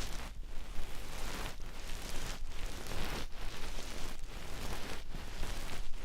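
ASMR ear-cleaning tool scratching and rubbing inside an ear close to the microphone, in repeated crackly strokes about one a second.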